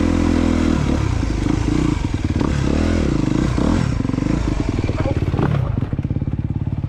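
2022 Honda CRF250R's single-cylinder four-stroke engine running steady, then revving up and down unevenly for several seconds on the throttle, before settling to an even idle near the end.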